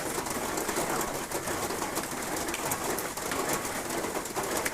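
Heavy rain falling steadily, a continuous hiss with fine pattering.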